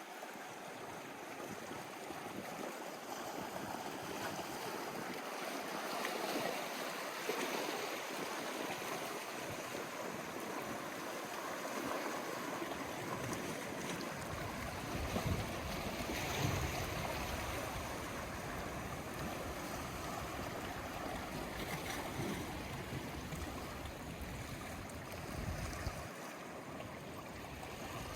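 Sea waves washing onto the shore, a steady rushing hiss that swells gently every few seconds. A deeper low rumble joins about halfway through.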